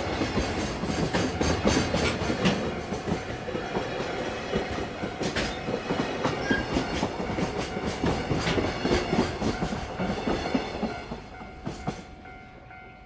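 A train passing over a level crossing, its wheels clattering rapidly over the rail joints. About eleven seconds in the clatter dies away, leaving a faint steady ringing.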